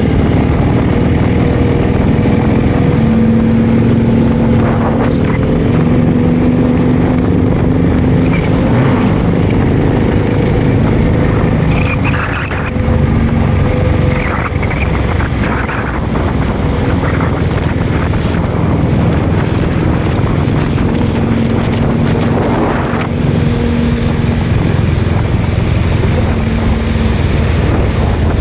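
Triumph TRW's side-valve parallel-twin engine running steadily as the motorcycle is ridden, with wind buffeting the microphone. The engine note eases briefly about twelve seconds in and again a few seconds later, then picks up again.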